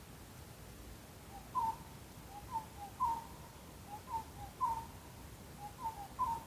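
A bird calling: a series of short, soft whistled notes that alternate between a lower and a higher pitch, each dipping slightly, starting about a second and a half in and repeating in loose groups.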